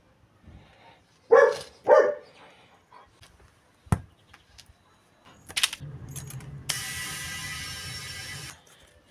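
Tools being handled, with knocks and a sharp click, then a steady low hum joined by a loud hiss for about two seconds that cuts off near the end.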